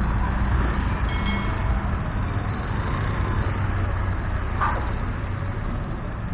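Motorcycle engine running steadily under road and wind noise while riding in traffic, with a short sharp click about a second in.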